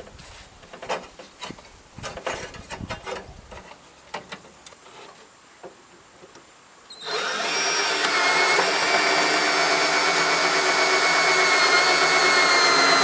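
Quiet scattered clicks and knocks of handling, then about seven seconds in a power tool starts and runs steadily at full speed with a high whine.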